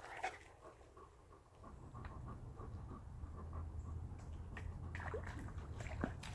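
A dog panting quickly and evenly, with a steady low rumble underneath.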